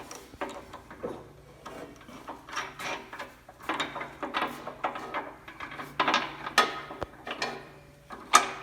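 Irregular clicks and clanks of hand tools and bolts being handled while bolting on the wood splitter's tongue, coming more often in the second half.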